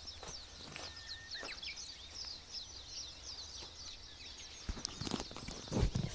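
Many birds chirping continuously in quick, high, downward-sweeping notes over a wood campfire, with a few sharp crackles and knocks from the fire, the loudest about five to six seconds in.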